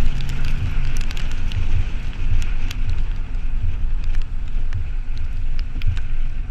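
Toyota 4Runner fitted with a Flowmaster 40 Series exhaust, idling with a low, uneven exhaust rumble and scattered light clicks.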